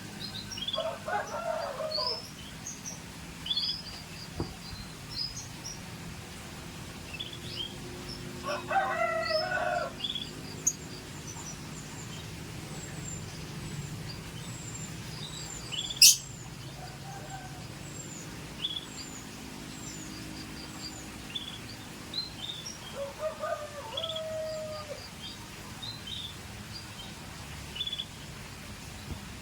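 Scotch Fancy canaries giving short, high chirps at intervals, with three longer, lower calls from another bird. There is one sharp click about halfway through.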